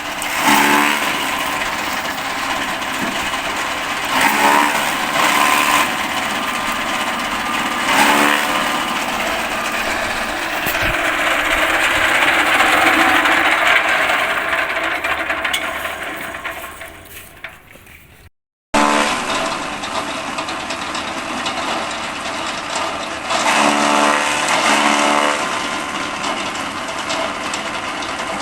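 AGR-CH200B forage chopper running: a steady mechanical noise that swells louder every few seconds. About two-thirds of the way through it dies away, then it starts again with more loud swells.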